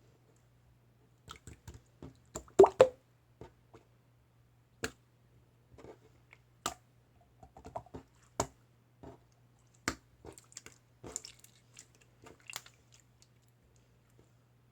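Irregular clicks, taps and soft squishy handling noises from small objects being handled close up, with the loudest pair about two and a half seconds in, over a faint steady low hum.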